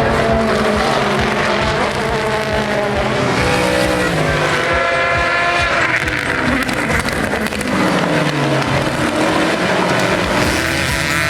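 Race car engines running hard, the note climbing about four seconds in and then falling away over the next two seconds as a car accelerates and backs off or passes.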